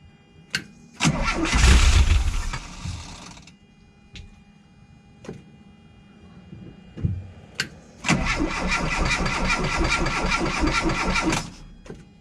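1985 VW Vanagon's 1.9 WaterBoxer flat-four engine being cranked on the starter in two start attempts. The first starts about a second in and fades after about two and a half seconds. The second starts about eight seconds in and runs steadily for about three and a half seconds. Sharp clicks sound between the attempts.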